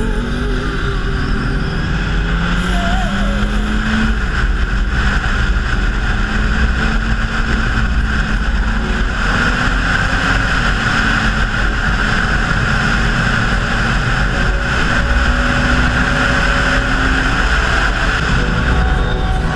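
Motorcycle engine running under way, with rushing wind noise. The engine note climbs slowly a couple of times as it picks up speed.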